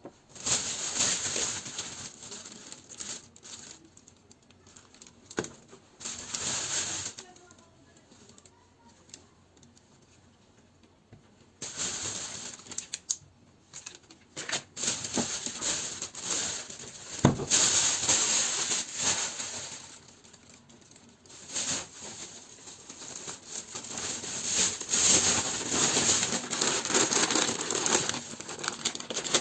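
Plastic packaging being handled and crinkled in irregular bursts, with a few sharp knocks, the loudest about halfway through.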